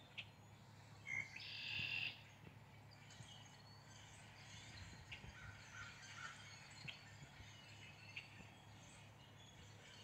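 Wild birds calling faintly: one harsh, buzzy call of under a second about a second and a half in, the loudest sound, then scattered short chirps and high ticks.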